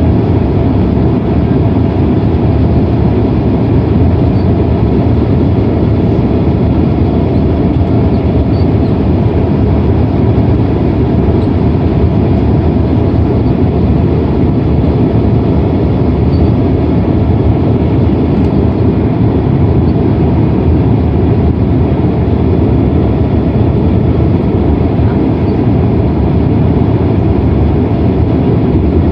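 Steady cabin noise inside a Boeing 767-300ER airliner: a constant low rumble of engines and airflow with a faint steady hum above it, unchanging throughout.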